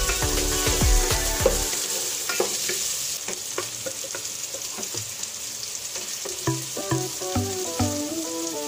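Onion and garlic sizzling in oil in an aluminium pot, stirred at first with a wooden spoon, a steady frying hiss throughout. Background music plays over it, loudest at the start and again near the end.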